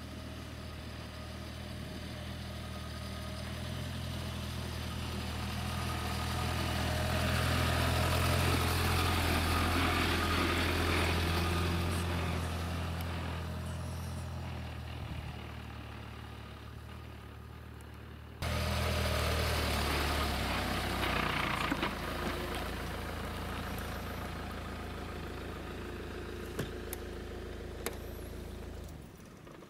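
UAZ Hunter off-road vehicle driving slowly along a dirt track, its engine a steady low drone that grows louder as it passes and then fades as it moves away. About 18 seconds in the sound jumps abruptly to a second stretch of steady engine noise, which stops shortly before the end.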